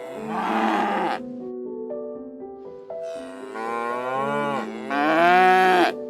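Cow mooing three times: one call about a second long near the start, then two longer calls back to back in the second half, the last the loudest. Soft background music of stepped keyboard-like notes plays underneath.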